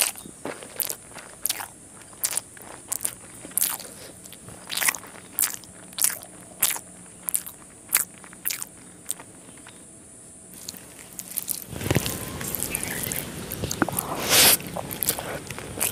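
Close-miked chewing of rice and egg curry: wet mouth clicks and smacks in a slow, even rhythm. About twelve seconds in, it changes to the squelch of fingers working rice and curry together on a plate, with louder smacks as a handful goes into the mouth.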